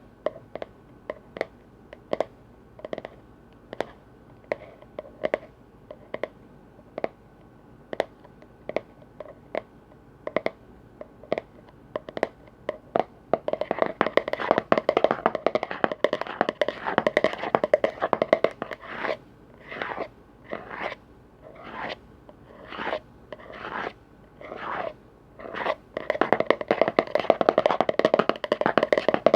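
Tapping on container lids, with single crisp taps about twice a second for the first half. Then it turns to fast, dense tapping and scratching, breaks into short separate bursts about once a second, and goes dense again near the end.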